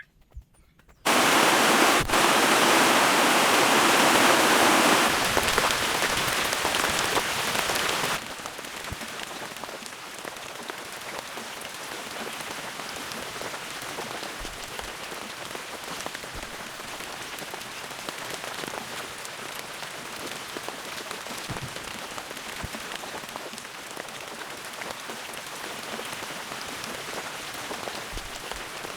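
Heavy rain that starts suddenly about a second in and is loud for several seconds, then drops after about eight seconds to a steady, quieter fall of rain with individual drops pattering.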